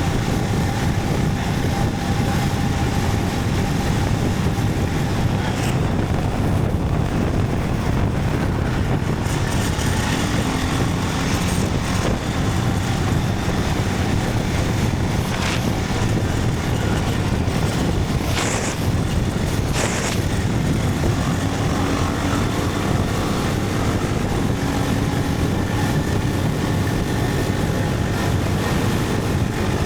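Motorcycle on the move: steady wind noise over the rider's microphone mixed with the engine running underneath. Two brief high hissing sounds come about two-thirds of the way in.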